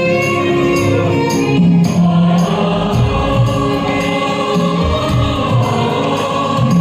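Hindi film song sung to a karaoke backing track: long, held vocal lines over a steady beat of about two strokes a second.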